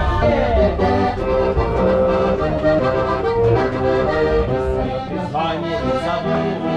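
Accordion playing a melody of held notes, performed live in the carriage of an elektrichka commuter train.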